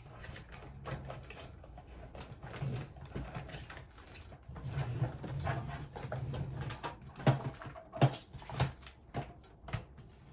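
Small items being handled and set in place, with rustling and a few sharp knocks about seven to nine seconds in.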